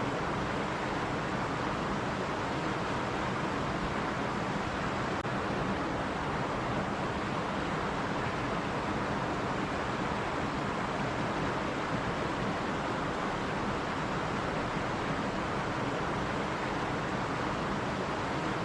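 Running stream, water flowing over rocks in a steady, even rush.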